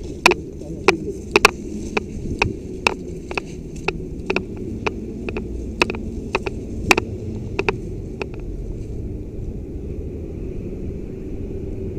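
A run of sharp, irregular clicks or cracks, two or three a second at first and thinning out after about eight seconds, over a steady low rumble of wind and movement on the microphone.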